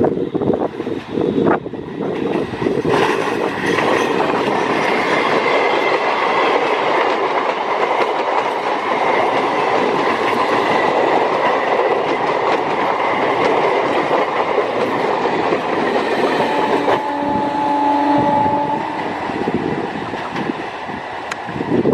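A train passing close at speed, with a dense rush of wheel and rail noise and rattling carriages. Near the end a locomotive horn sounds for about two seconds.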